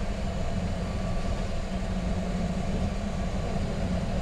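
Steady rumble and hum inside the cockpit of a Boeing 737 MAX 8 rolling along the runway after touchdown.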